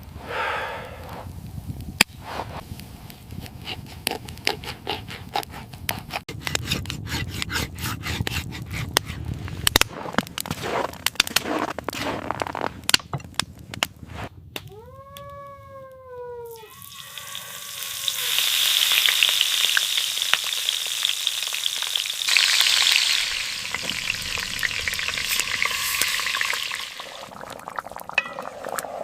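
Food sizzling and crackling over a fire, in several cut-together shots: crackling clicks at first, then a loud steady sizzle in the second half. About halfway through comes a single short whining call of under two seconds, rising then falling.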